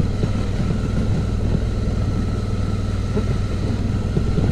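Suzuki V-Strom motorcycle engine running steadily under way, a constant low hum with road and wind noise.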